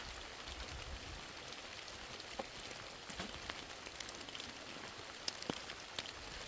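Steady rain falling, a soft even hiss with scattered sharper drips of single drops landing, a few louder ones in the second half.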